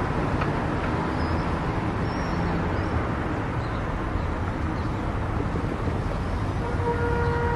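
Steady road and engine noise of a car driving on a highway. Near the end a brief pitched tone sounds for about a second.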